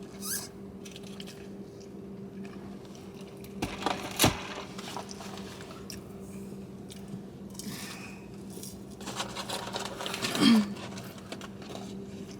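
Eating fast food: chewing, with food wrappers rustling and a sharp knock about four seconds in, over a steady low electrical hum.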